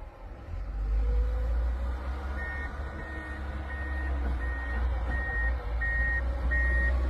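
A heavy vehicle's diesel-sounding engine running with a steady low rumble; from about two seconds in, its reversing alarm beeps at one pitch, about one and a half beeps a second, as it backs up.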